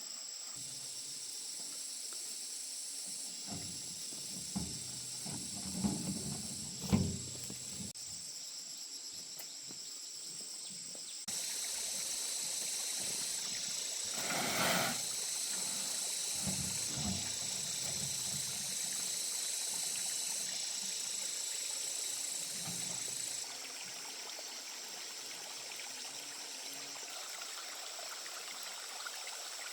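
Outdoor rural ambience: a steady high-pitched hiss, with a few knocks and thuds about four to eight seconds in and a brief louder swish near the middle.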